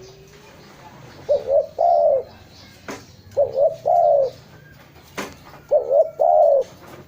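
Spotted dove cooing: three repeated coo phrases about two seconds apart, each two short notes followed by a longer falling coo. Two faint clicks fall between the phrases.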